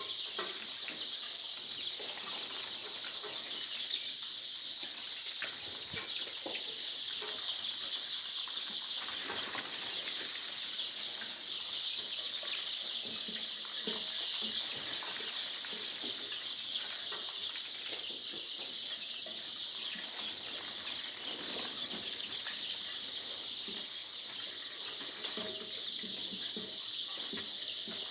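Chickens clucking now and then, with a few short wing flaps and small knocks, over a steady high-pitched drone throughout.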